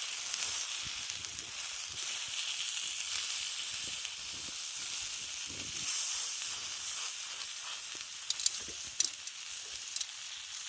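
Chicken sizzling on a flat rock heated over a campfire, a steady hiss with a few sharp pops in the last few seconds.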